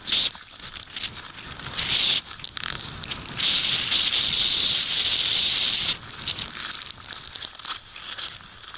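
Blizzard wind driving snow, hissing in gusts with one long gust in the middle, mixed with rustling.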